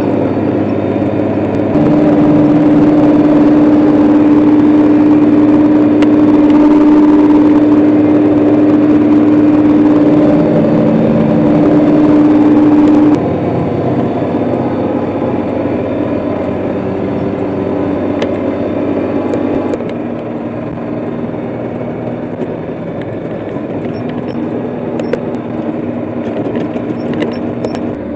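John Deere 4055 tractor's six-cylinder diesel engine running steadily under way, with a steady high whine over it for the first half. The sound changes abruptly a few times.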